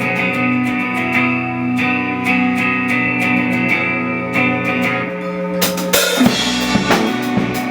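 Live band music: electric guitars play steady, regularly picked notes, then the drum kit comes in with a cymbal crash and kick and snare hits about five and a half seconds in.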